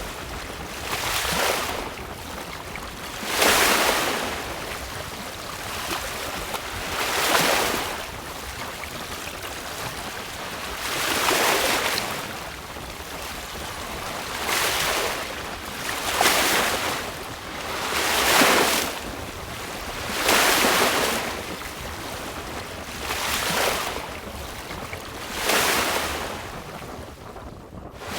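Choppy sea water rushing and splashing along a sailboat's hull in repeated surges about two to four seconds apart, about ten in all, with wind buffeting the microphone.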